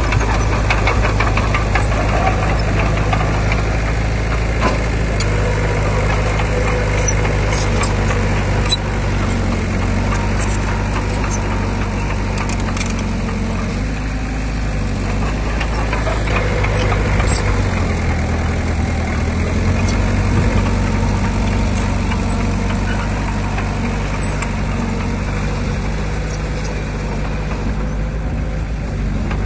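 Heavy diesel engine of earthmoving machinery running steadily under load, its pitch rising and falling a little as it works, with a few faint clanks.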